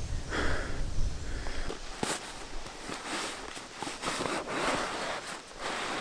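Footsteps walking over the forest floor: irregular crunching and rustling steps, with a few sharp clicks.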